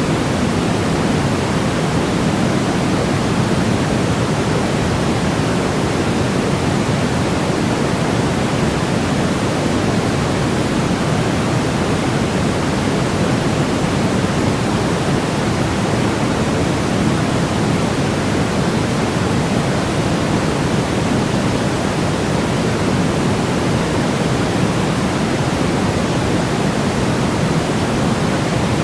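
Steady sleep-aid white noise, an even, unchanging hiss weighted toward the low end so it sounds like a soft rush.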